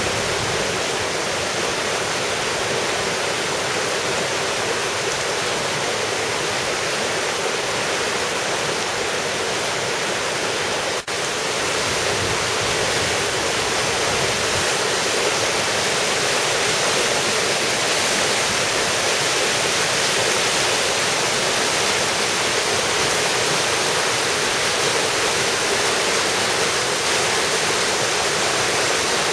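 Steady rushing of mountain-valley water, a stream or waterfall running loud and unbroken, with a momentary dropout about eleven seconds in.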